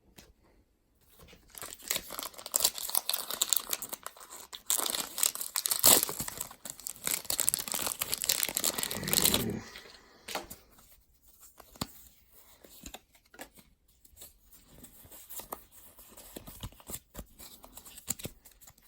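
Foil wrapper of a Pokémon card booster pack being torn open and crinkled for several seconds, then quieter rustling and light clicks as the cards are handled.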